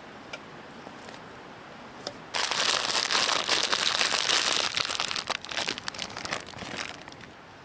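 Crinkling and crumpling of a thin, crackly sheet or wrapper being handled close up, starting suddenly about two seconds in and fading out about five seconds later, with a few faint clicks before it.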